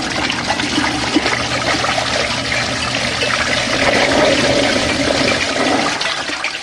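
Water rushing loudly through a portable washing machine, with a steady low motor hum underneath. The rush starts abruptly and eases near the end.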